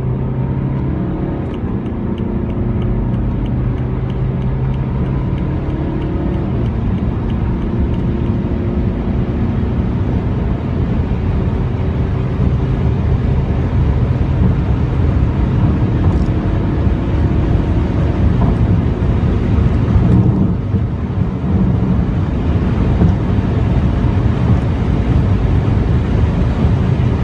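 Four-cylinder turbodiesel car engine pulling hard under full acceleration at high speed, heard from the cabin as a steady drone over road and wind noise. The pitch steps now and then and the drone grows louder about twelve seconds in.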